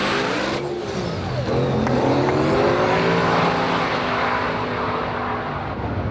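Drag race car engine running hard, its pitch dipping about a second in, then climbing and holding steady.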